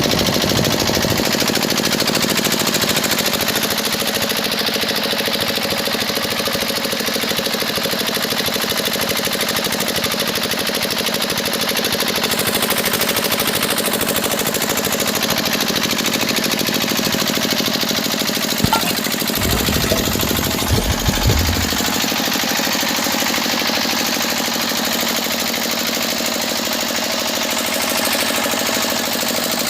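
Steady mechanical running noise of a small motor or engine, with a short cluster of low thumps about two thirds of the way through.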